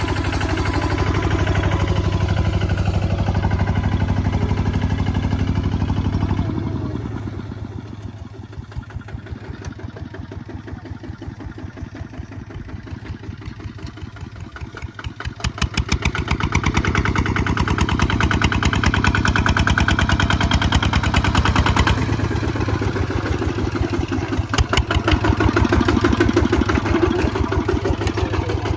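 Kubota ZT 155 DI single-cylinder diesel engine running with a steady firing beat. About six seconds in it throttles down to a quieter, slower chug, and about fifteen seconds in it revs back up and runs loud again.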